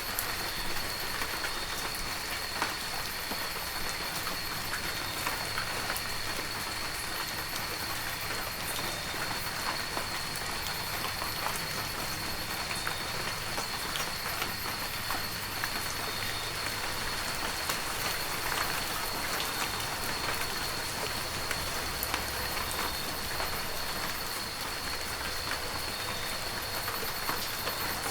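Heavy rain falling steadily, a dense hiss full of separate drop hits, with a thin steady high tone running underneath.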